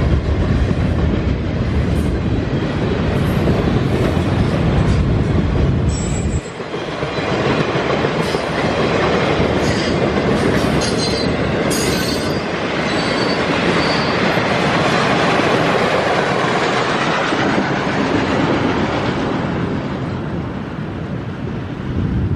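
Norfolk Southern freight train's cars rolling past: a steady loud rumble and clatter of wheels on the rails, with thin high-pitched wheel squeals in the middle. A heavy low rumble drops away about six seconds in.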